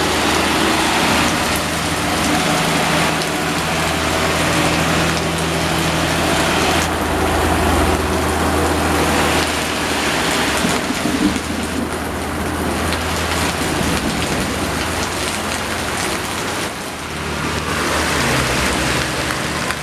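Steady heavy rain falling, with a truck's diesel engine running low under it. The engine is strongest in the first half, fades away, and a second engine comes in near the end.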